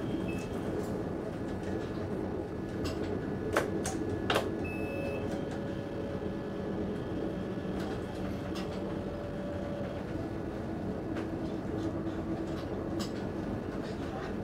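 Passenger train running, heard from inside the driver's cab: a steady rumble with a humming drone, and a few sharp clicks about three and a half and four and a half seconds in.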